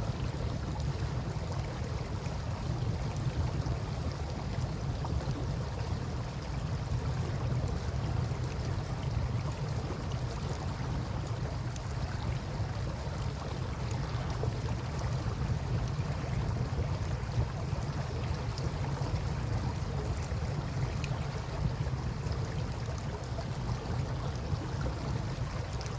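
Campfire crackling with scattered small pops over steady flowing river water, with a constant low rumble underneath.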